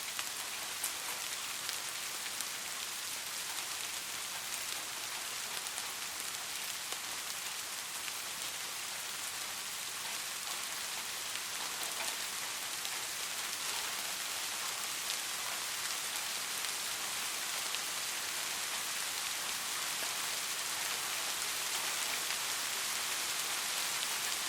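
Steady rain falling on a street: a dense, even hiss with scattered sharper drop ticks.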